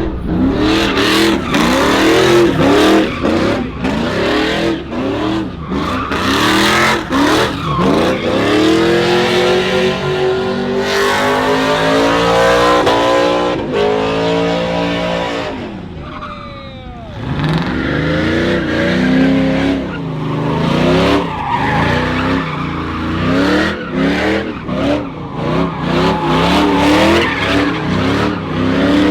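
Truck spinning donuts: its engine revving up and down over and over while the rear tires skid and squeal. The revs drop briefly about 16 seconds in, then climb again.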